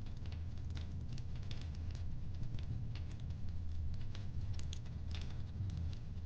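Wood fire crackling: irregular small pops and snaps over a steady low rumble.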